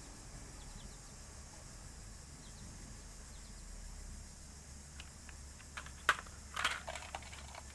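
Faint steady background hiss, then a few light clicks and taps in the last few seconds, one sharp click followed by a short cluster: small plastic toy vehicles being handled.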